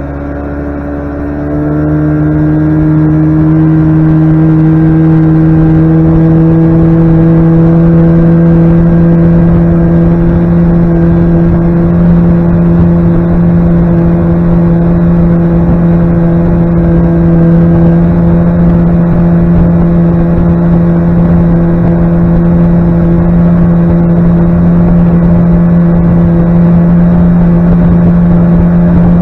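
Boat's outboard motor throttling up over the first couple of seconds, then holding a steady, loud run at cruising speed.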